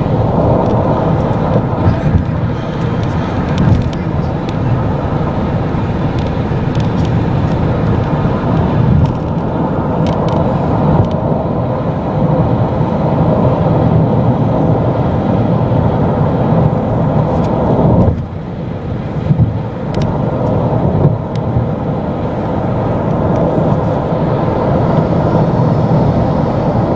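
Loud, steady drone of a van heard from inside the cabin, with faint steady tones running through it. It dips briefly about two-thirds of the way through, then carries on.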